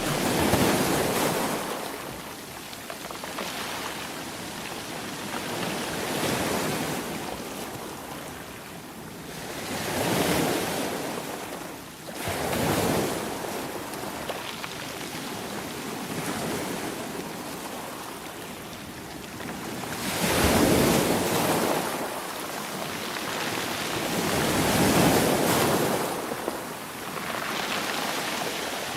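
Ocean waves breaking and washing on a shore, about six surges that swell and fade every few seconds over a steady surf hiss.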